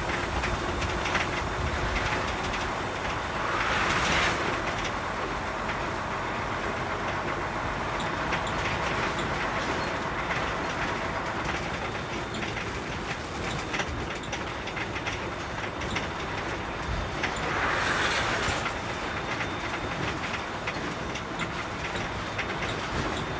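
Container semi-truck on the move, heard from the cab: steady engine and road noise with a continuous rattling clatter, and two louder rushing swells of hiss, one about four seconds in and one later on.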